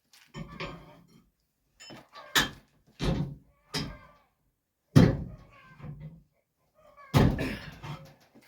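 A series of about six sharp knocks and clunks, a few seconds apart, each ringing briefly; the loudest comes about five seconds in.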